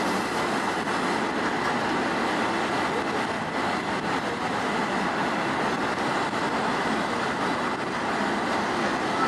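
Steady running noise of an old-type steam-hauled passenger coach rolling along the track, heard from inside the car.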